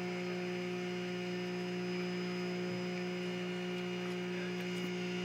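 Small fishing boat's inboard engine running steadily at idle, a constant humming drone.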